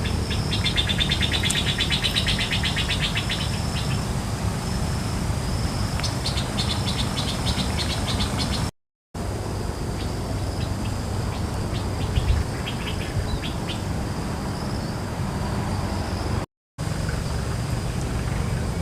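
Wind rushing over the microphone as a steady low rumble, with three bursts of rapid, evenly pulsed chirping of a few seconds each. The sound drops out briefly twice.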